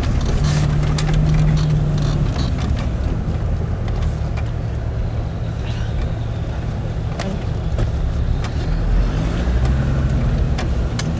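Engine of an off-road vehicle running steadily at low revs, its pitch shifting slightly, with scattered knocks and rattles.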